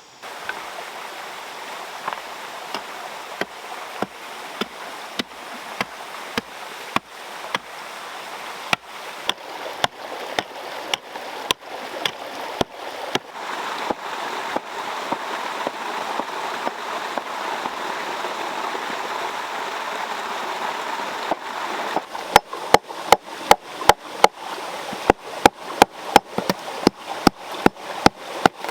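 Steady rush of flowing water, with sharp regular knocks of a tool striking, about two a second, turning louder and quicker near the end.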